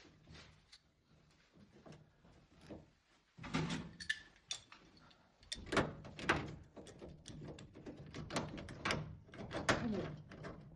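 Irregular clicks, knocks and clatter of tools and washing-machine parts being handled during reassembly, faint at first and then coming in quick succession from a few seconds in.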